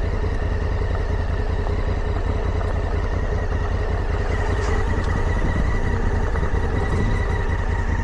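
Motorcycle engine running steadily, a constant low pulsing drone with an even rush of noise over it.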